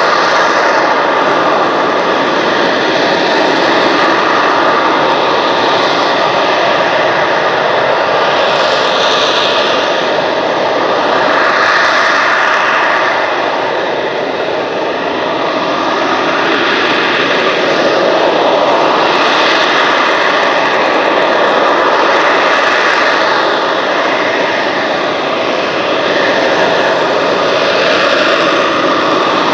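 EAV-8B Harrier II's Rolls-Royce Pegasus turbofan running loud and steady, a dense jet noise with a high steady whine, dipping slightly about halfway.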